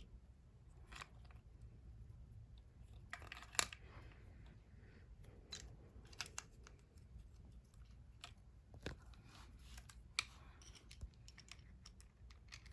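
Faint scattered clicks and taps of hands fitting batteries into a small plastic toy bird's battery compartment, with one sharper click about three and a half seconds in.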